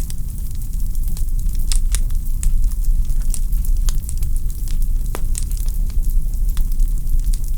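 Wood logs burning in a fireplace, crackling: irregular sharp snaps and pops over a steady low rumble of the fire.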